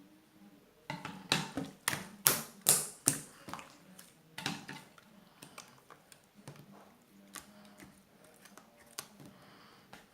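Slime being pressed and squeezed by hand, giving a run of sharp clicking pops, loudest in the first half and fainter and sparser toward the end.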